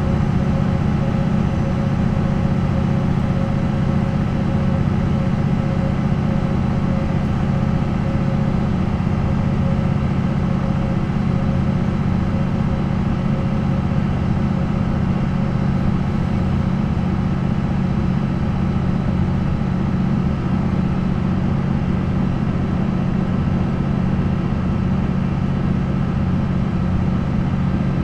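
MAN NL 263 bus's D28 diesel engine running steadily at an unchanging speed, a low even drone with no revving or gear changes.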